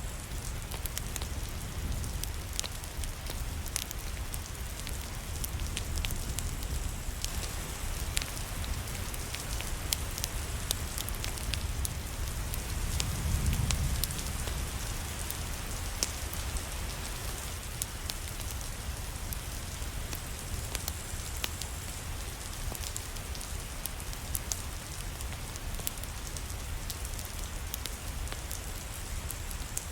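Steady rain with a fire crackling, sharp pops and snaps scattered through the even hiss of the rain. A low rumble swells briefly about halfway through.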